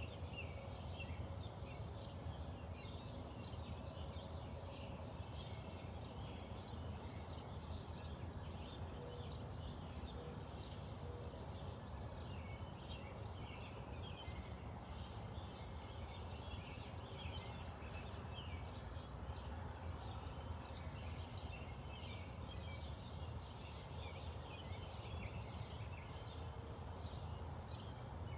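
Wild birds chirping and singing without pause, many short overlapping calls, over a steady low rumble of outdoor background noise.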